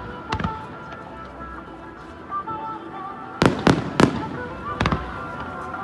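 Aerial fireworks bursting: a bang just after the start, then four bangs in quick succession in the middle, over background music.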